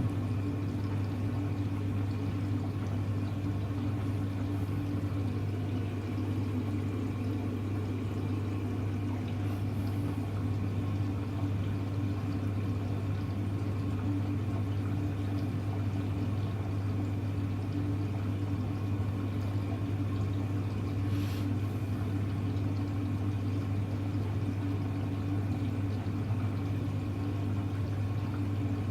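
Hoover Electra front-loading washing machine with water flowing through it, a steady electrical hum under the rush of water. The sound starts just before and holds at an even level.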